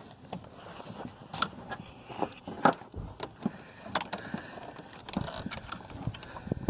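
Irregular clicks, knocks and scrapes of hands working at ignition-coil connectors in an engine bay, with the sharpest click about two and a half seconds in.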